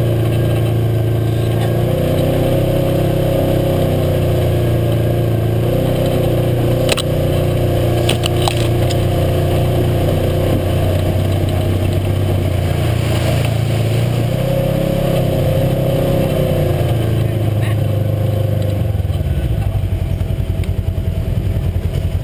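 UTV engine running steadily under way on a trail, with a few sharp knocks and clatters about seven and eight seconds in. Near the end the engine note drops into a slower, pulsing beat.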